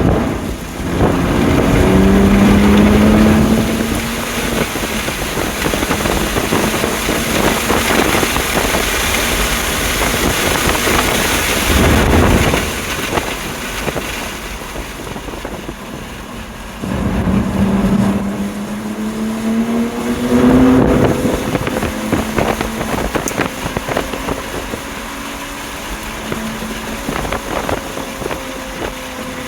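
BMW M2 Competition's twin-turbo inline-six accelerating hard on track, engine pitch climbing through two long pulls, under steady wind and tyre noise.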